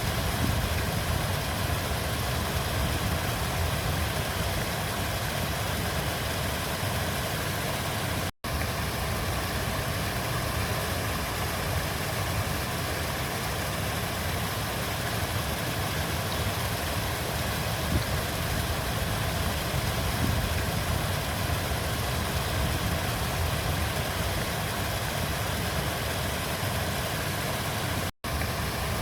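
River water flowing: a steady rushing noise, heaviest in the low end, that drops out to silence for an instant twice, about eight seconds in and near the end.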